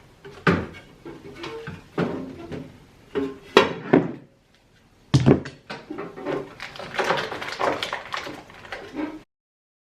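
Knocks and clatter of food containers and packets being taken out of a fridge and set down, a sharp knock every second or so; the sound cuts off suddenly near the end.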